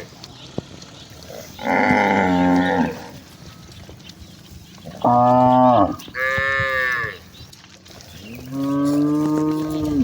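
Cattle mooing: four separate drawn-out moos of about a second each, some lower and some higher-pitched, from different animals in a herd.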